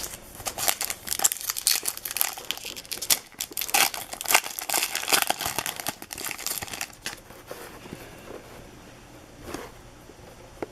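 Foil baseball card pack wrappers being torn open and crinkled, a dense run of crackling for about seven seconds, then quieter with one last crinkle near the end.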